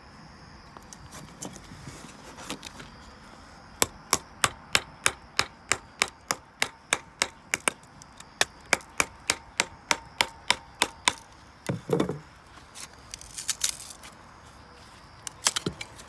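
Rapid, even chopping strikes on wood, about three a second for some seven seconds, followed by a heavier thud and a few scattered knocks.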